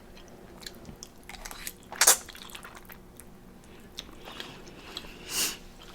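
Close-up mouth sounds of a person chewing noodles, with small scattered clicks, a sharper noise about two seconds in and a short hissy swell near the end.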